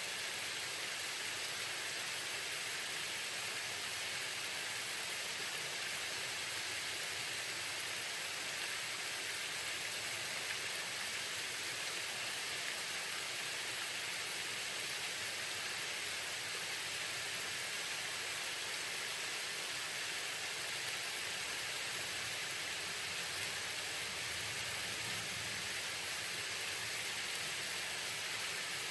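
Waterfall pouring steadily, an even rushing hiss of falling water.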